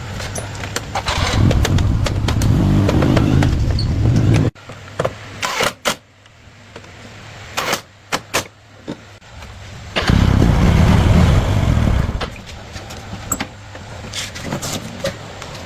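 Motorcycle engine running in two loud spells, the first cutting off abruptly about four and a half seconds in, the second around ten to twelve seconds in. Scattered clicks and knocks fall in the quieter stretch between.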